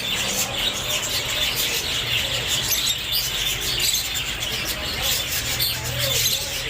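A flock of Australian parrots chattering continuously in many overlapping chirps, with a steady low hum underneath.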